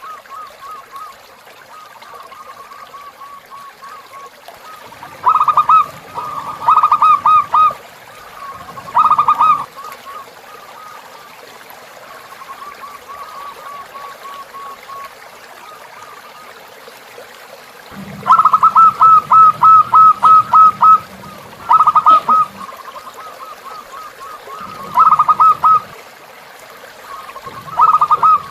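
Zebra dove (perkutut) cooing in loud bursts of rapid staccato notes, seven of them, the longest lasting about three seconds, with softer cooing between and trickling water under it.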